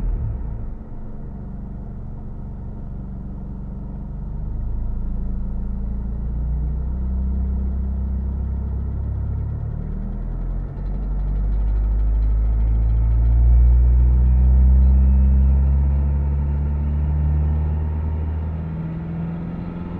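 2000 Mitsubishi Eclipse engine running, its pitch drifting slowly up and down and growing louder past the middle before easing off; the owner finds the engine's sound strange.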